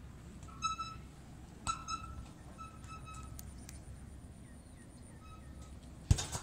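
Short bird calls repeated irregularly, each a brief steady note with overtones, over a low steady rumble. A single sharp knock about six seconds in is the loudest sound.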